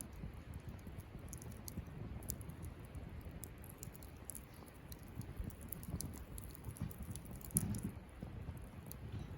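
Wood campfire crackling: many small scattered snaps over a low steady rumble, with one louder pop near the end.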